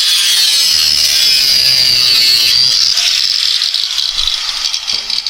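Cut-off tool's abrasive wheel cutting steel bar with a loud, high-pitched hiss that eases off after about three seconds into uneven rattling.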